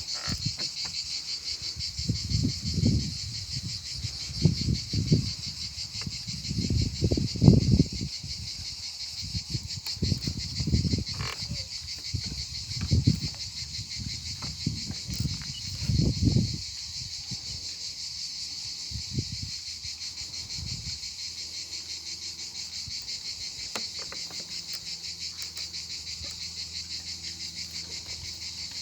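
Steady insect chorus, a continuous rapidly pulsing trill, with irregular low rumbles during the first half or so.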